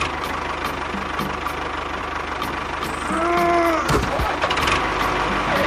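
Mini tractor's motor running steadily with a rapid low beat. A short pitched sound rises and falls a little after three seconds in.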